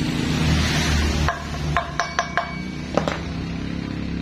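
Hammer tapping an oil seal into a motorcycle's rear wheel hub: about six sharp metallic taps that ring briefly, spread over a couple of seconds.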